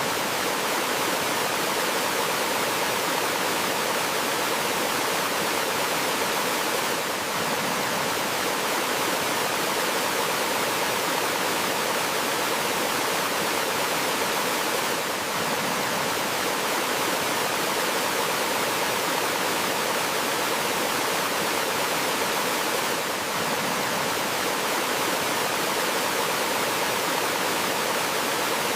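Gentle waterfall in a forest stream: water flowing and splashing as a steady rushing noise, with a slight brief dip in level about every eight seconds.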